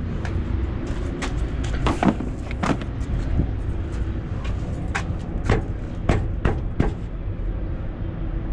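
Irregular sharp knocks and clunks, about a dozen, over a steady low rumble.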